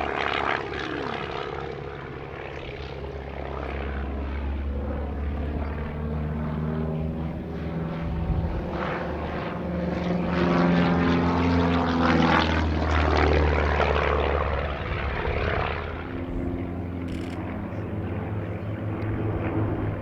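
Propeller-driven aerobatic display planes flying past, several engine drones at different pitches rising and falling as they pass, loudest about halfway through.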